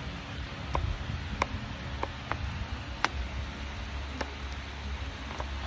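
Worn ZD30 drive-belt tensioner worked in and out by hand, giving about six sharp metallic clicks at uneven intervals as it knocks through its play, over a low steady hum. The play comes from the tensioner's missing internal bush, which has used up its adjustment range and causes the belt squeal.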